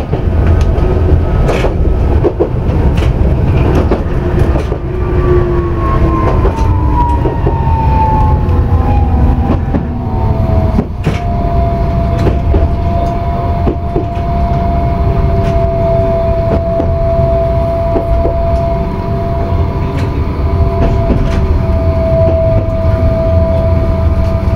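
Tokyu Setagaya Line 300-series light-rail car running, heard from inside: a steady low rumble with scattered wheel clicks over the rail joints. Its whine falls in pitch over several seconds, then holds steady at one note.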